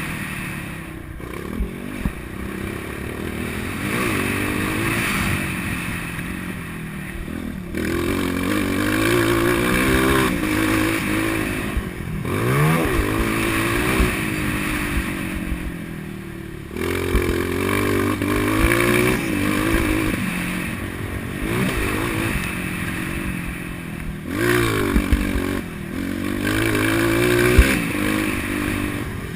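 Motocross motorcycle engine revving up and down over and over as it rides the track, with sudden drops in pitch near 8 and 17 seconds. Scattered knocks and rattles sound under the engine.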